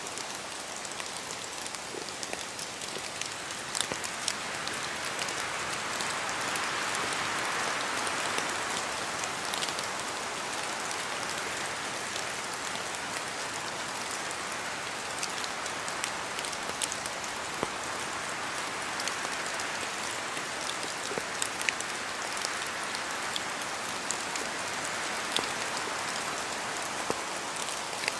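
Steady rain falling through forest trees, with scattered sharp drops landing close by. A broad swell, taken to be a gust of wind through the wet leaves, rises a few seconds in and eases off.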